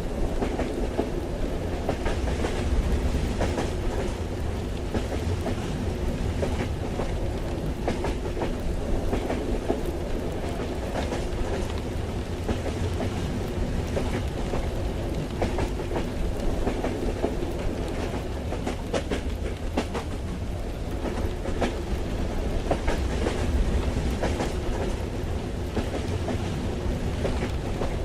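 Steady ambience inside a moving train carriage: a low rumble with the wheels clicking over the rail joints.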